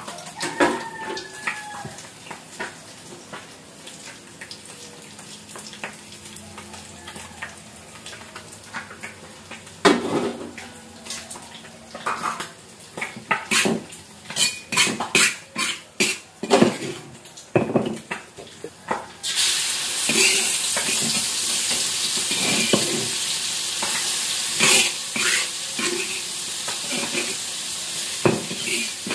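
A metal spatula knocking and scraping ground chili-garlic paste out of a stone mortar, with a few clinks against plates and the wok. About two-thirds of the way through, a sudden steady sizzle starts as the spice paste goes into the hot oil in the wok and begins to fry.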